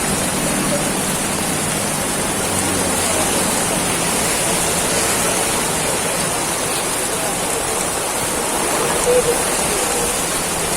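Heavy rain pouring down in a steady, dense hiss. A brief faint tone sounds about nine seconds in.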